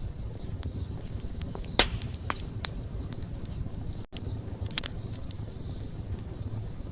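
Wood bonfire burning: a steady low rumble of flame with scattered sharp crackles and pops from the burning wood, the loudest pop about two seconds in.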